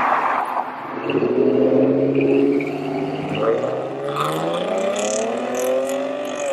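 A car engine running up through the revs as the car pulls away. It is loudest a second or two in, and its pitch climbs steadily over the last couple of seconds before falling off at the end.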